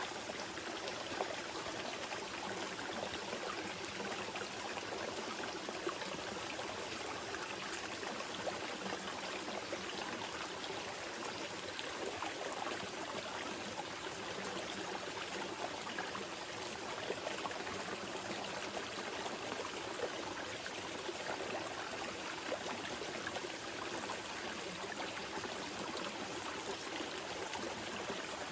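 Small river flowing steadily over rocks, an even rush of water with small splashes and trickles.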